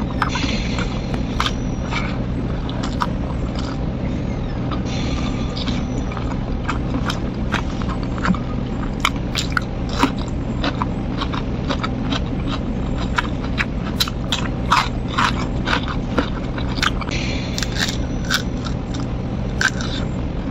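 Close-miked eating: chewing and wet mouth clicks with bouts of crunching of crispy fried food, over a steady low hum.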